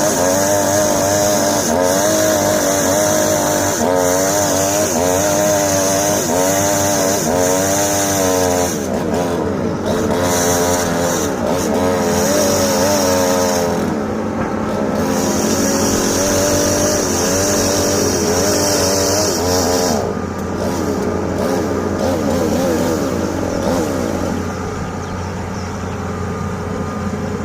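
Excavator's diesel engine and hydraulics working under load, the pitch rising and falling over and over, with a hiss that comes and goes; it settles to steadier running near the end.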